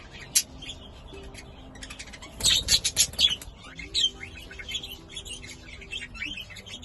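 Budgerigars chirping and chattering, with a burst of rapid, loud chirps about two and a half seconds in.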